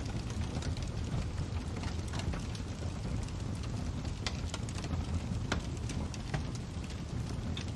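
Crackling fire: a steady low rumble of flames with frequent irregular sharp pops and snaps.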